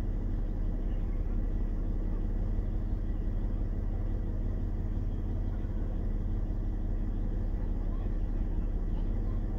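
Car engine idling steadily, heard from inside the parked car's cabin: a low, even rumble.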